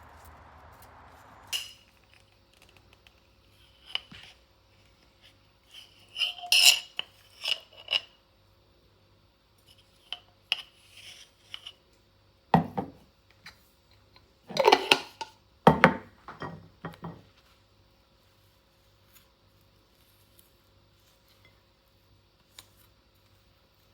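Dishes and cutlery being handled: scattered clinks, knocks and clatters, busiest in two flurries, one a few seconds in and one past the middle, with a faint steady hum underneath.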